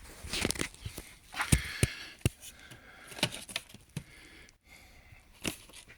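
Irregular sharp clicks and knocks with bursts of rustling, the sound of objects being handled close to the microphone.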